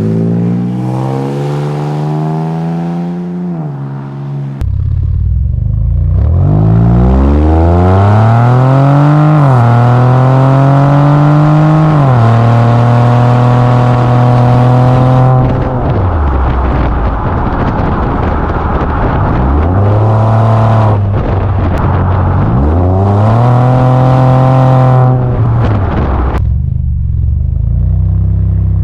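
Ford Edge Sport's 2.7-litre twin-turbo EcoBoost V6 through a MagnaFlow Magna Pack exhaust, resonator deleted, loud and repeatedly revving up: the note climbs, holds steady for several seconds, then drops back, three or four times, settling back to idle near the end.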